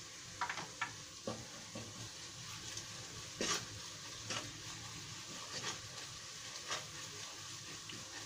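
Onions and spice paste sizzling in oil in a nonstick pan while a wooden spoon stirs them, with short scrapes of the spoon against the pan now and then.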